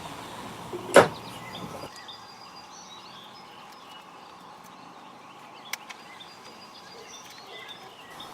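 A single sharp knock about a second in, typical of a wooden part or tool being set down during a glue-up, then a faint steady hiss with a small tick past the middle.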